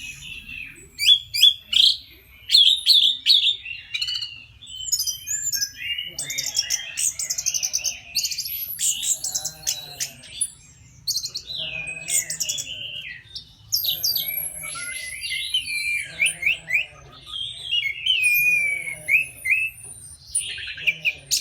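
Orange-headed thrush (anis merah) singing a long, varied song of rapid warbles, chirps and trills, broken now and then by thin, high drawn-out whistles.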